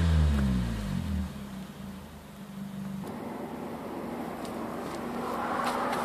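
Samsung SM3 engine and exhaust winding down after a rev: the note falls in pitch and loudness for about a second, then settles into a steady, much quieter idle.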